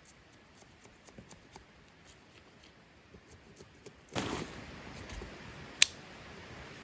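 Gear being handled close up: scattered light clicks, then a burst of rustling about four seconds in that fades slowly, and one sharp click near the end.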